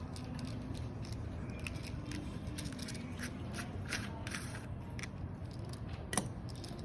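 Light clicks and taps of small plastic shower-head parts being handled and worked, with one sharper click about six seconds in, over a steady low hum.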